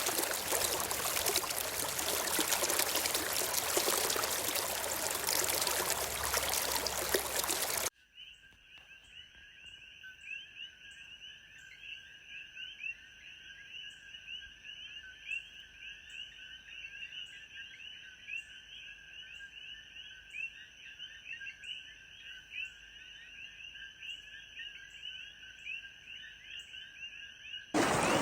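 Rushing stream water for about eight seconds, then an abrupt cut to a chorus of frogs calling in rapid, steady trills at two pitches, with a faint high tick repeating about once a second.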